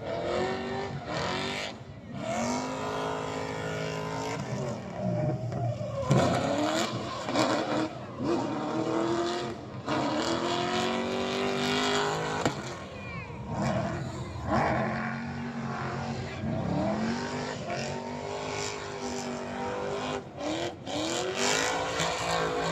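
Car engines revving again and again, their pitch repeatedly climbing and falling, with several engines overlapping.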